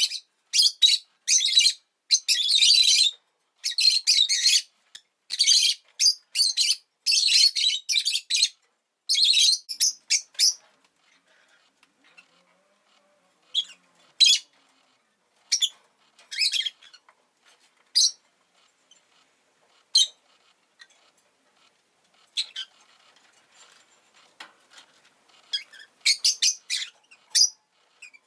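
Rosy-faced lovebirds chirping: a fast run of shrill, high chirps for the first ten seconds or so, then scattered single calls with pauses between, and a quick burst of chirps again near the end.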